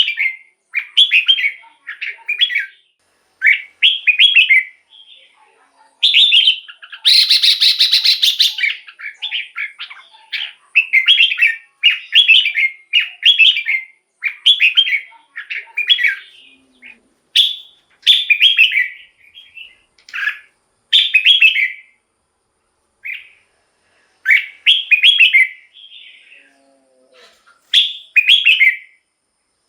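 Red-whiskered bulbul singing: a series of short, loud, whistled song phrases repeated with brief pauses, with one harsher, buzzier phrase about seven seconds in.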